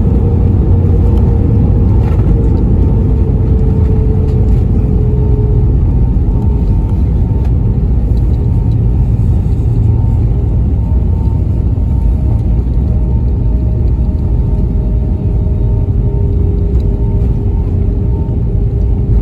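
Inside the cabin of an Airbus A320neo airliner: a loud, steady rumble of airflow and the Pratt & Whitney PW1100G geared-turbofan engines, with a faint humming tone that sags slightly in pitch over the first few seconds.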